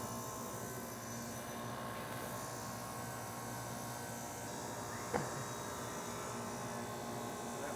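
Refrigeration equipment, a compressor with its fans, humming steadily while it runs under light load. One short sound breaks in about five seconds in.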